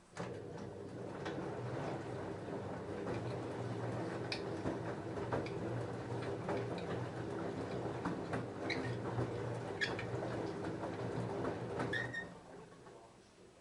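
LG F10A8HDS5 front-loading washing machine turning its drum through a load of jeans in the wash phase: a steady motor hum with frequent small clicks and knocks as the load tumbles. It starts suddenly and stops about twelve seconds in.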